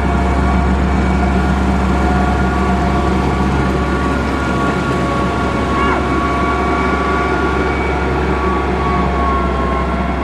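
Diesel engine of a heavy road-construction machine running steadily, a constant low rumble with a steady whine of several high tones on top.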